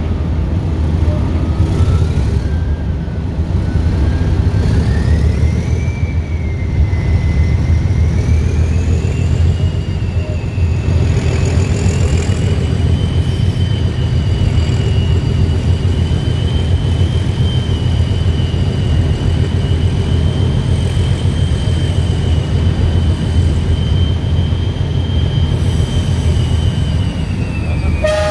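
Heritage diesel train running under power: a heavy low engine rumble with a whine that climbs in pitch over the first ten seconds, holds steady, then falls away near the end.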